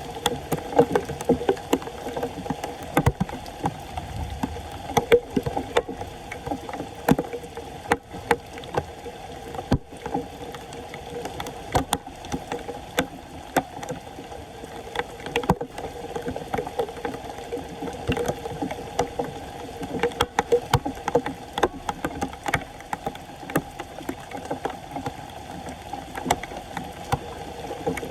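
Floodwater splashing and sloshing, with frequent irregular knocks and clatters, while debris is cleared from a clogged storm drain.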